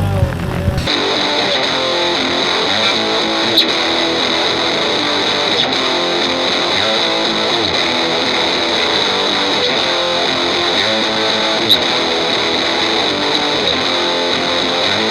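Distorted electric guitar playing, the grunge tone run through an amp impulse response. About a second in the sound changes abruptly from a full, bass-heavy tone to a thinner, bright one with little low end.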